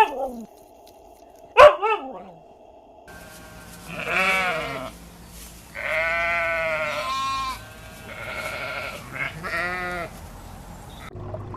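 A single sharp dog bark, then livestock bleating: about five drawn-out, wavering calls, one every second or two.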